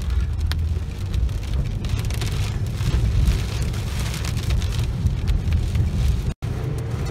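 Rain hitting a moving vehicle's roof and windshield, heard from inside the cabin, over a steady low road and engine rumble. The sound cuts out for an instant near the end.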